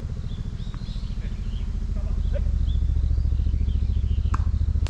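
A motor vehicle's engine running with a low, pulsing rumble that grows louder over the last couple of seconds. Faint short high chirps sound over it, and there is a sharp knock near the end.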